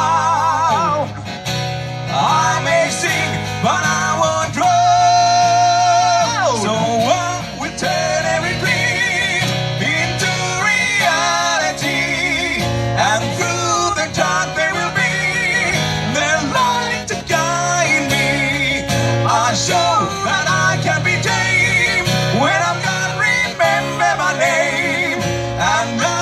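Live acoustic guitar music in an instrumental break: a lead line with bends and vibrato played over strummed chords.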